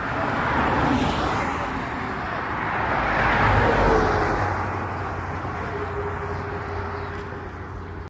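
Road and traffic noise of a car on the move: a steady rumble with a haze that swells twice, about a second in and again around three to four seconds in.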